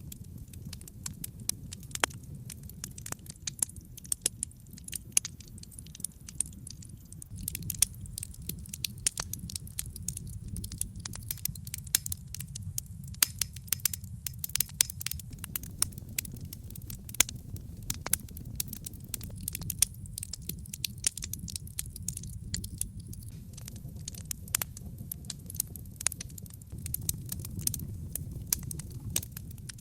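Wood logs burning in a fireplace: a dense run of sharp crackles and pops over a steady low rumble of flame, the crackling growing busier about seven seconds in.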